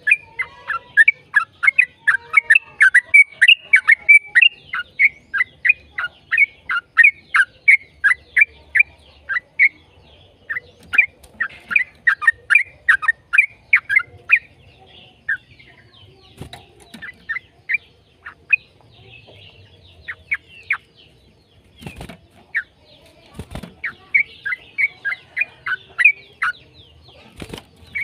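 Yellow-vented bulbul (trucukan) singing a rapid chattering run of short, falling notes, several a second, in long bursts with a sparser stretch in the middle. Two or three sharp knocks come in the latter part.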